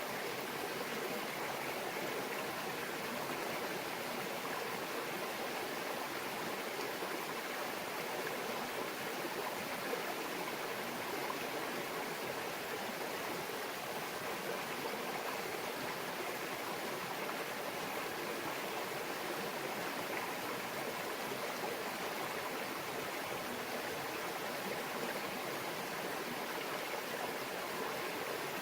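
A small stream babbling steadily over rocks, an even rush of running water.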